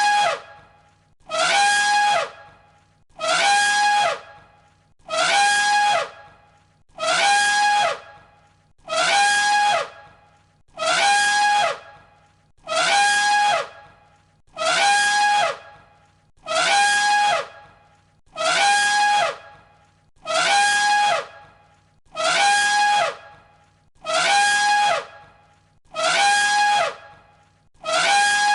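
An elephant trumpeting: the same loud call of about a second, repeated about every two seconds, one recording played on a loop. Each call holds a steady pitch, with a falling sweep running through it.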